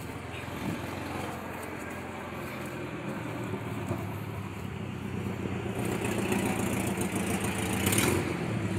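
A motor vehicle's engine idling steadily, with a short burst of noise about eight seconds in.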